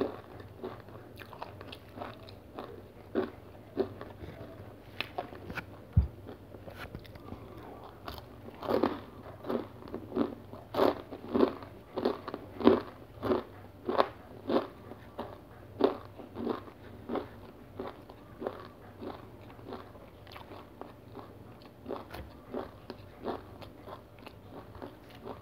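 Close-up chewing of a crunchy whole-grain cereal bar: a run of crisp crunches at about two a second, loudest through the middle, then softer chewing toward the end.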